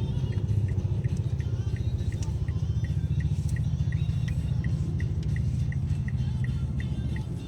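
Low, fluttering rumble of a vehicle travelling on a wet city road, with a short high beep repeating evenly about three times a second.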